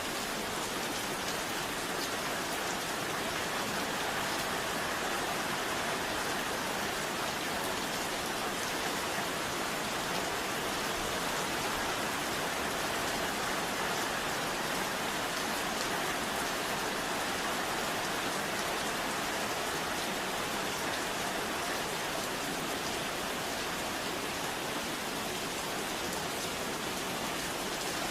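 Steady rain falling on a surface, an even hiss that holds level throughout.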